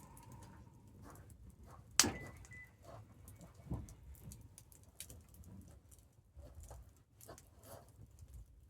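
Campfire burning with a low steady rumble and irregular crackles, with one loud sharp pop about two seconds in and a smaller one shortly after.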